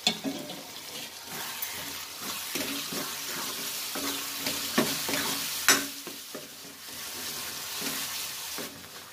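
Tomato-onion masala sizzling as it fries in oil in a kadhai, while a steel ladle stirs and scrapes through it. A sharper scrape or knock comes a little over halfway through.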